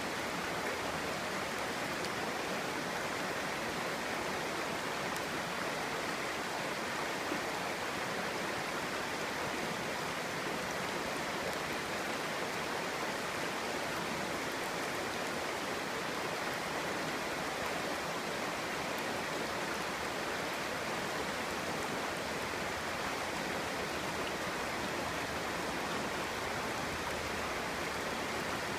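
Clear stream water flowing and babbling over stones, a steady rushing sound.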